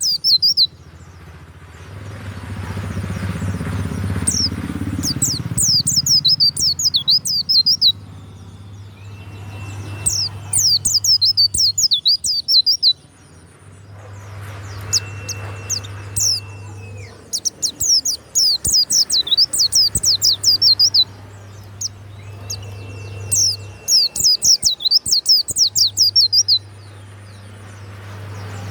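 White-eye (pleci) singing in repeated bouts of fast, high chirping notes, each run lasting a few seconds, with short pauses between runs.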